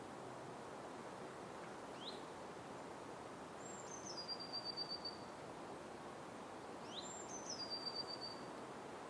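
A small songbird singing the same phrase twice, about five seconds apart: a quick rising note, then a high note that steps down into a rapid, even trill. Steady forest ambience hiss underneath.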